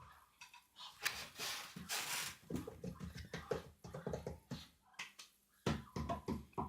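Paper and plastic packaging being handled, with rustling, crinkling and many small clicks, the crinkling strongest for a second or so shortly after the start.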